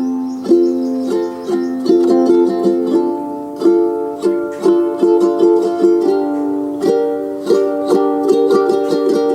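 Background music: a light, plucked ukulele-like tune with a steady pulse of notes.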